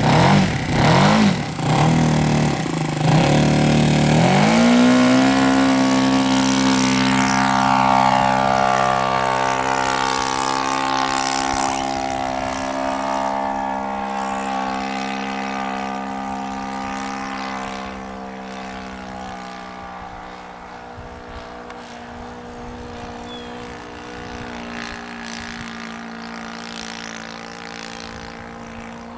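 Engine and propeller of a Balsa USA 1/4-scale Cub radio-controlled model plane: it revs up and down for the first few seconds, rises to a steady high-throttle drone about four and a half seconds in, then holds its pitch while gradually growing fainter.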